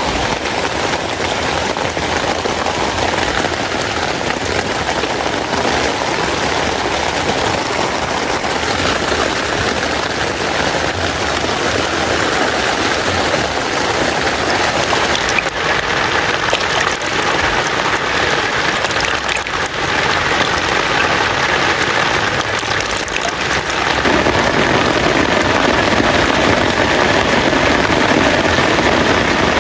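Heavy rain falling steadily in a dense patter, growing a little louder and fuller about five seconds before the end.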